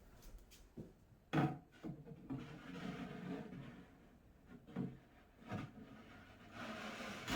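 Cat tower parts being handled during assembly: several wooden knocks and a stretch of rubbing as pieces are fitted together.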